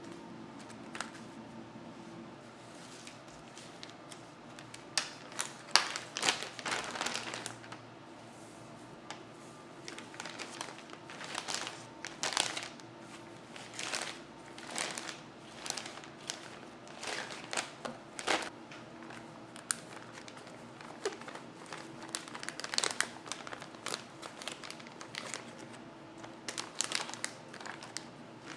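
Intermittent crinkling and rustling of wrapping material as fresh herbs are handled and packed for storage, in clusters of crisp rustles that are busiest a few seconds in.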